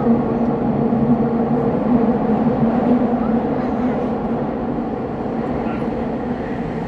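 Subway train running at speed through a tunnel, heard from inside the front car: a steady rumble of wheels on rails with a constant low motor hum, easing slightly in loudness toward the end.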